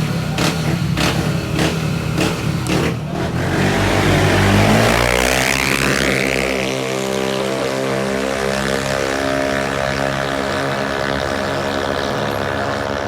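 Racing CVT scooter engines revving in short blips, then launching into a hard acceleration with a sharply rising pitch. The engines settle into a steady high-revving drone as the scooters run down the strip.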